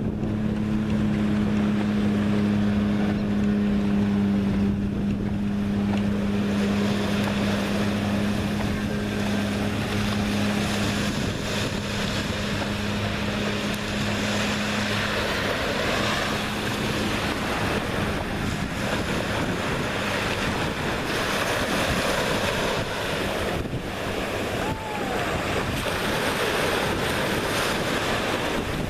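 Gulf surf washing onto the beach, with wind buffeting the microphone. A steady low engine drone is heard under it and fades out about halfway through.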